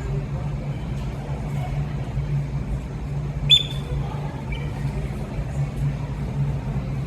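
Steady low droning hum, with one short, sharp high bird call about halfway through and a couple of fainter chirps just after.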